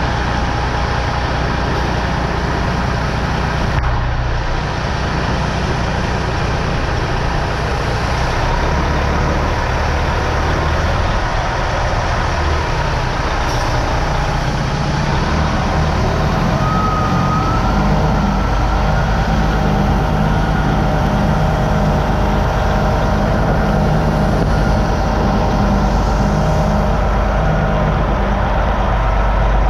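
Freightliner Coronado semi-truck's diesel engine running steadily, with its low rumble growing stronger about halfway through.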